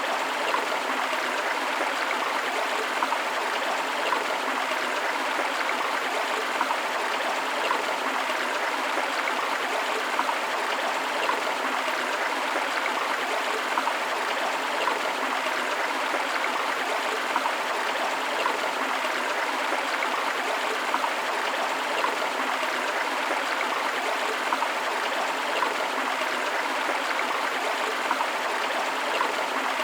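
Steady rushing of a forest river and waterfall, an unbroken wash of flowing water with small irregular splashes and gurgles.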